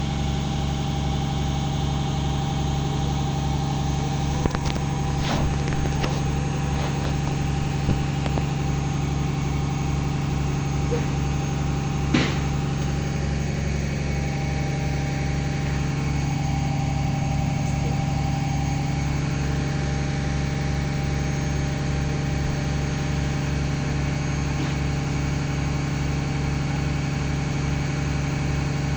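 An engine idling steadily with an even low pulse, with a few sharp knocks or clicks over it, the loudest about twelve seconds in.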